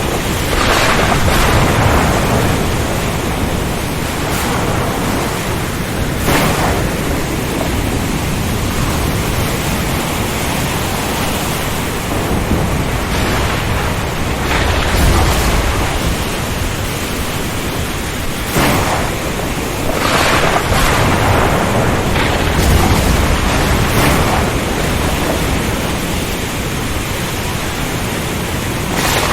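Storm ambience at sea: dense steady rain and strong wind with low thunder rumbling, and brief surges every few seconds.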